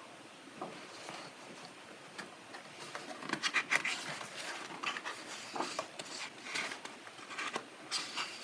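Pages of a coloring book being turned and handled: irregular paper rustles and flicks, loudest in a quick run about three to four seconds in.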